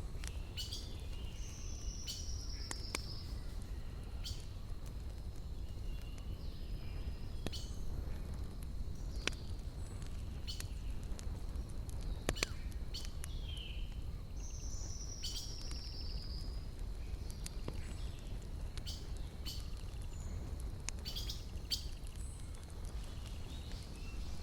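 Wood fire crackling, with scattered sharp pops over a low steady rumble, while small birds chirp. Twice a bird gives a short falling trill.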